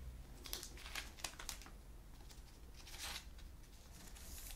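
Trading cards and plastic card sleeves being handled: short crisp crinkling and rustling of plastic and card stock, in a cluster of quick rustles from about half a second in, another around three seconds, and again near the end.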